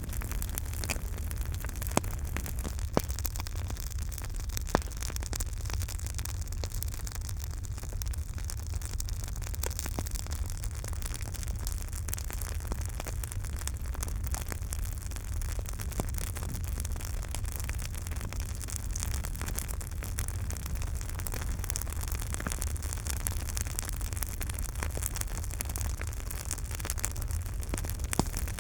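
Campfire burning: a steady low rumble of the flames with frequent small crackles, and three sharper pops within the first five seconds.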